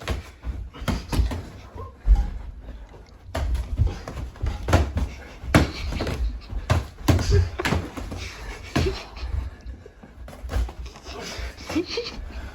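Irregular thuds and slaps of punches landing in a sparring bout, with scuffling and heavy breathing in a small room.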